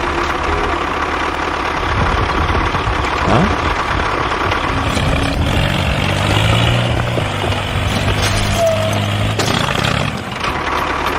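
A homemade mini tractor's small engine running steadily.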